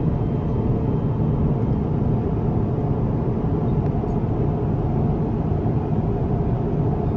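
Steady, even cabin noise inside an Airbus A350-1000 airliner: a constant low rush, heaviest in the bass, with no distinct events.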